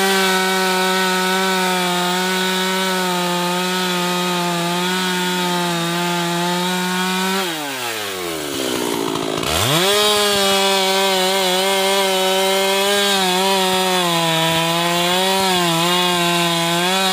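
Husqvarna two-stroke chainsaw running at full throttle, cutting teak wood. The revs fall away when the throttle is released about halfway through, climb again a couple of seconds later, and drop once more at the end.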